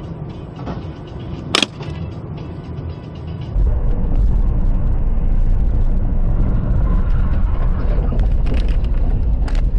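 Car noise picked up by a dashcam: a steady low rumble, a single sharp knock about one and a half seconds in, then a much louder, heavier low rumble from about three and a half seconds.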